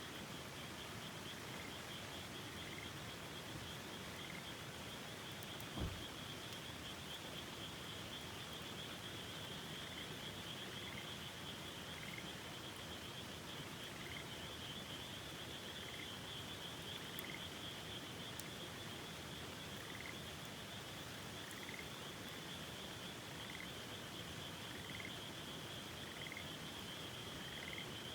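Frogs calling over the steady rush of a river: a continuous high pulsing trill, with a short rising call repeated about once a second. A single dull thump sounds about six seconds in.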